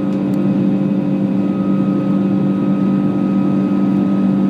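Steady drone of an Airbus A340-600's Rolls-Royce Trent 500 engines heard inside the cabin: an even, unchanging hum of several low tones over airflow noise.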